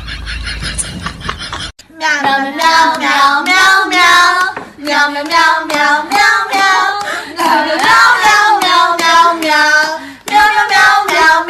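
A high voice singing a melody in short notes, starting after a brief pause about two seconds in.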